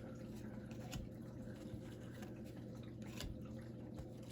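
Faint rubbing and light clicks of trading cards being slid and flipped through by hand, over a steady low hum.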